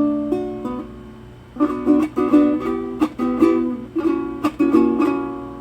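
Venezuelan cuatro being strummed: a chord left ringing, then rhythmic strummed chords from about a second and a half in.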